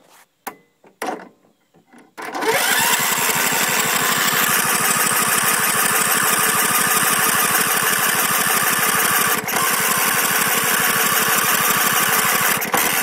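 A few clicks, then a Husqvarna LTH140 lawn tractor's Kohler engine cranked by its electric starter for about ten seconds, spinning over fast and evenly without firing, and stopping near the end. The no-start is put down to a failed ignition coil.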